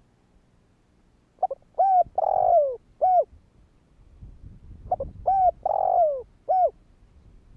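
Spotted dove cooing: two song phrases, one starting about a second and a half in and one about five seconds in. Each phrase is a short note, a couple of coos, a longer falling coo and a final coo.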